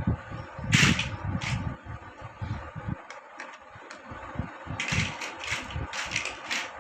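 Small plastic building blocks clicking and knocking as they are handled and pressed together. There is a sharp click just under a second in, another soon after, and a quick run of several clicks near the end, over soft low knocks of handling.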